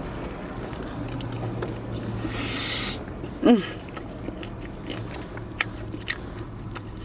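A person eating and chewing, with wet mouth clicks and smacks, over a steady low hum. A short vocal sound comes about three and a half seconds in.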